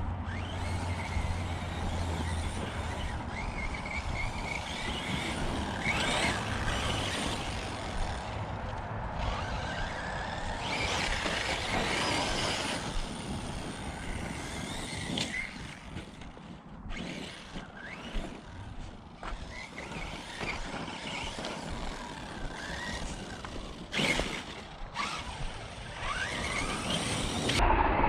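Arrma Notorious RC monster truck's Spektrum 1250kv brushless motor whining up and down in pitch as the truck accelerates and slows over dirt, running on 8S with its pinion now meshed properly. A few sharp knocks, the loudest near the end.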